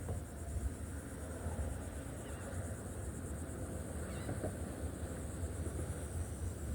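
Outdoor ambience: wind noise on the microphone, a steady high insect drone, and a few faint bird calls.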